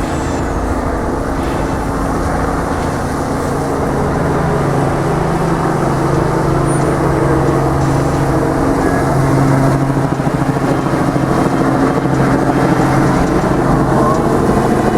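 Heavy truck engine running steadily under load while moving an oversize load slowly by road, with road and traffic noise, getting gradually louder.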